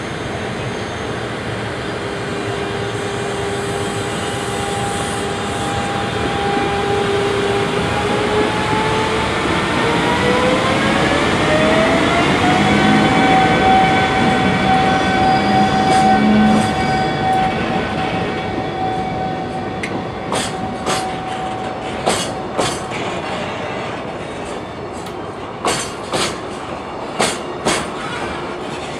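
JR Freight EF210 electric locomotive under power, its traction motors giving a steady whine that rises in pitch for a few seconds partway through as it gathers speed, then holds level. In the last part, the container wagons' wheels clack rhythmically over the rail joints.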